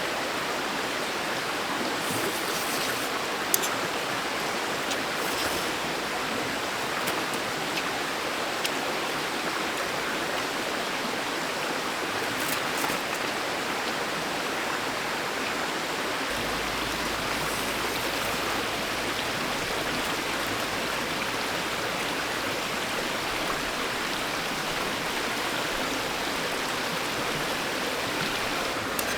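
Mountain stream flowing steadily, with a few light clicks over it.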